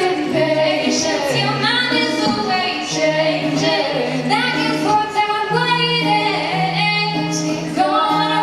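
Female voices singing sustained, wordless harmony lines, several parts at once, over a low held note.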